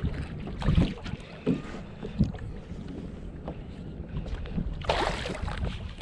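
Wind buffeting the microphone of a camera on a kayak, with water sloshing against the hull. A few dull knocks come in the first two seconds, and a short hissing rush comes about five seconds in.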